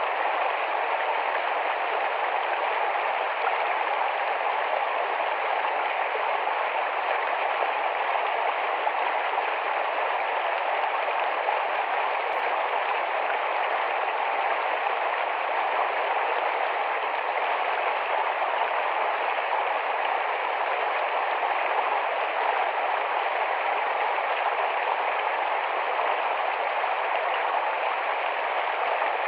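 Rapid shallow forest stream flowing, a steady, unbroken rush of water.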